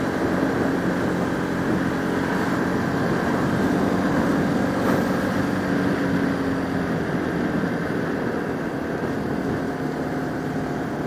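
Motorcycle engine, a Bajaj Pulsar RS200 single-cylinder, running at a steady cruise with wind and road noise around the helmet.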